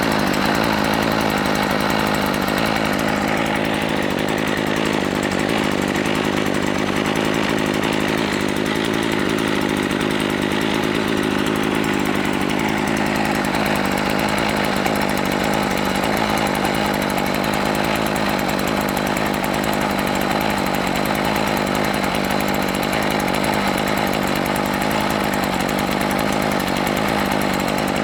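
Tanaka two-stroke brush cutter engine running steadily. It is the engine that will not stop: a broken wire in its stop circuit keeps the switch from cutting it off.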